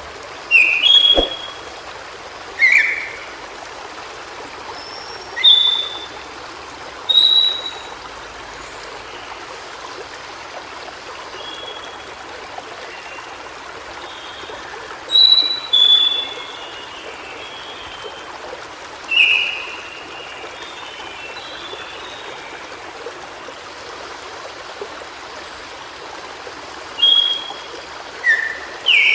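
Steady rush of a stream under short, high bird notes that come every few seconds, singly or in quick pairs: calls of a white-browed shortwing. A single sharp click sounds about a second in.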